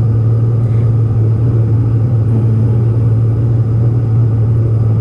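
Boat motor running steadily under way, a loud, even low hum with rumbling noise around it.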